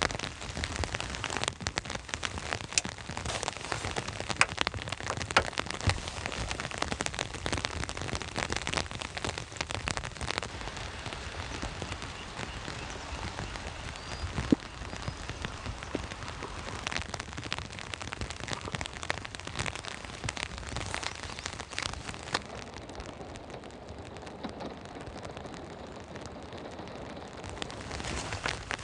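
Steady rain with many individual drops tapping sharply on a surface. The high hiss eases a little near the end.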